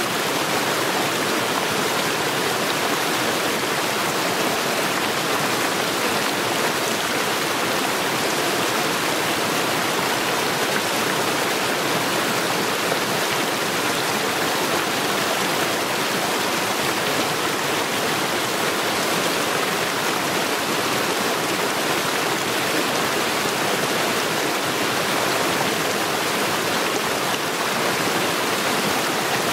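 Stream water rushing steadily over stones, an even, unbroken rush with no change in level.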